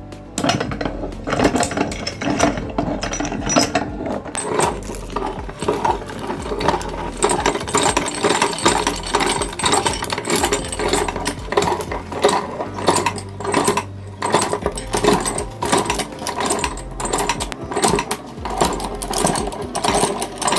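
Meat grinder crushing colourful spoons: a dense, rapid run of cracking and clicking over a steady low drone.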